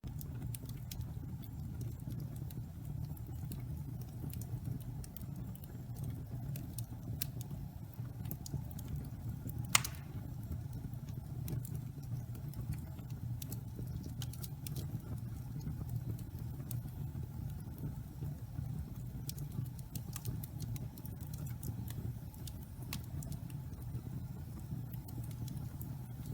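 Wood fire burning in a fireplace: damp pine logs crackling with scattered small pops over a steady low rumble of flame, and one sharp, loud pop about ten seconds in.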